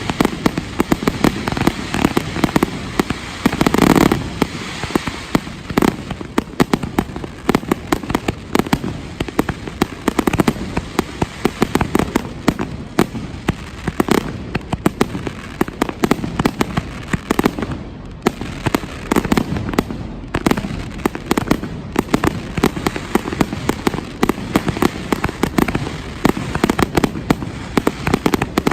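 Fireworks display: a dense, continuous run of bangs and crackling shells, with a heavier burst about four seconds in.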